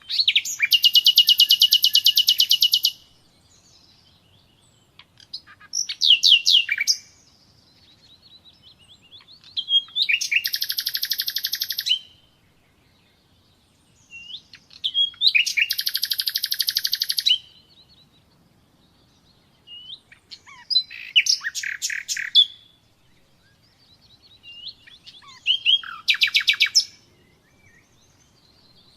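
Common nightingale singing: six phrases of rapid, fast-repeated trilling notes, each one to three seconds long, separated by short pauses.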